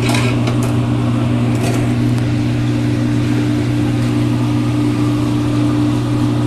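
Steady, loud mechanical hum of commercial kitchen equipment, with a few light clinks in the first two seconds.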